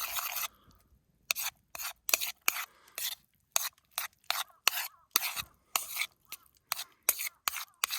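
Tartar sauce of egg, rakkyo and mayonnaise being stirred with a utensil in a container: quick scraping strokes, about two or three a second.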